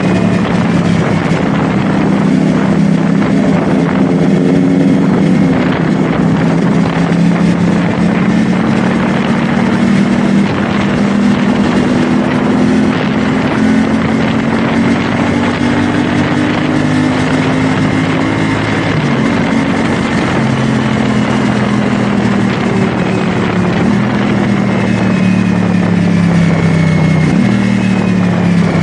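CFMOTO 450SR S parallel-twin engine pulling the motorcycle along at steady-ish revs that slowly rise and fall, dipping about two-thirds through and dropping near the end as the throttle eases off. Wind noise on the microphone runs under it.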